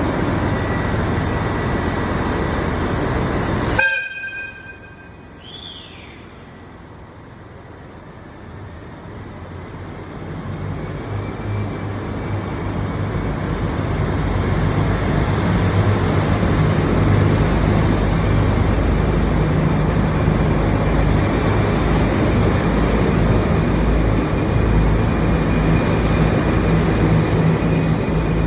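KiHa 283 series diesel railcar train: loud running noise, a short horn blast about four seconds in, then a second short blast that falls in pitch. After a quieter stretch the low diesel engine rumble and running noise build up and stay loud.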